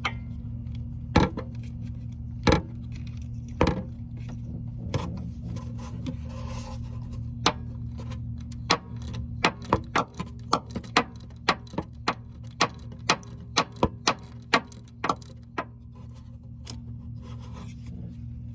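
Ratchet wrench clicking as a 10 mm bolt is loosened and backed out: a few separate clicks at first, then a run of clicks about two a second for several seconds, over a steady low hum.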